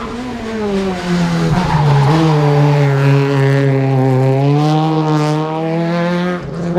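Rally car engine heard from onboard at full stage pace. The revs sag low for the first second or so, then the engine pulls hard and holds high revs, with a brief lift near the end before it picks up again.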